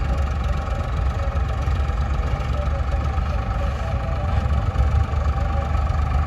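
Tractor diesel engine running steadily, with a deep low hum and no change in speed.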